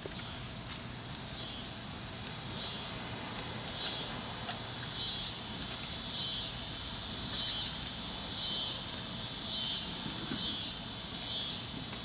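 Chorus of insects such as cicadas or katydids: a steady high-pitched buzz, joined after a couple of seconds by a pulsing high trill that swells and fades about once a second.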